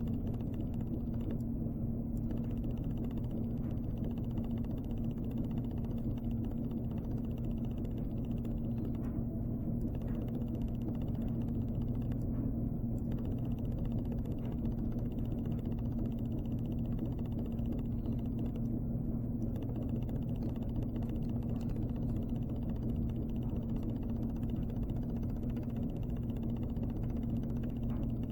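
A steady low hum with a constant low tone in it, unchanging throughout.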